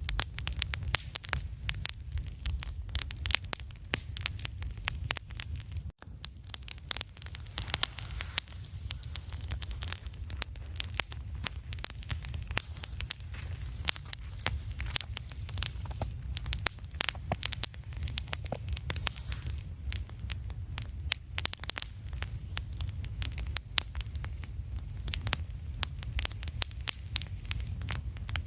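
Wood campfire crackling, with a dense, irregular run of pops and snaps over a steady low rumble. The sound cuts out for an instant about six seconds in.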